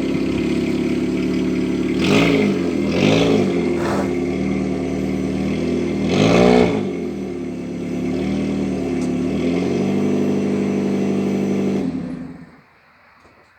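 Nissan VQ25DE 2.5-litre V6 idling and being blipped: a few short revs about two, three and four seconds in, a bigger rev around six and a half seconds, then lighter blips. It shuts off near the end.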